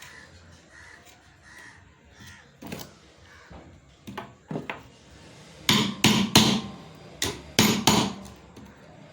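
Sharp knocks from work on an angle grinder's parts: a few soft taps, then about seven loud strikes in quick succession in the second half, each with a short ring.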